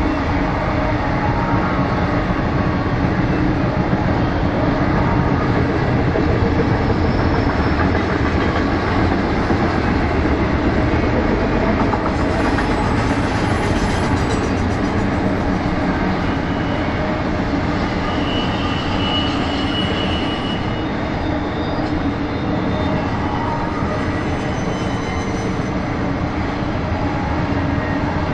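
BNSF intermodal freight train's double-stack container and trailer cars rolling steadily past, wheels running on the rails. A brief high squeal comes about two-thirds of the way through.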